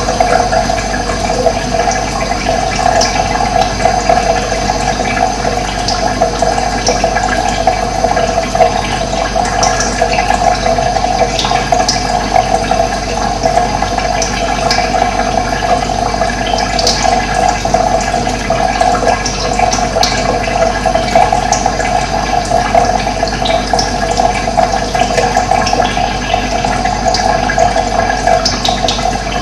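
Steady rush of running water, with brief high bird chirps now and then.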